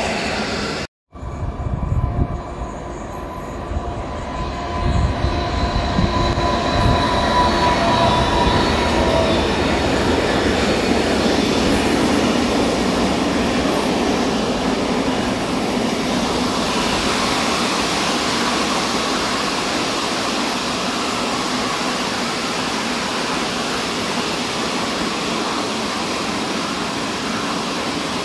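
A train rolling through the station, with high metallic wheel squeals over the first several seconds and then a steady rolling rumble. The sound drops out completely for a moment about a second in.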